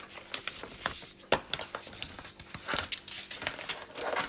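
Packaging crinkling and rustling, with irregular sharp clicks and knocks as coffee machine parts are handled; the loudest knock comes a little over a second in.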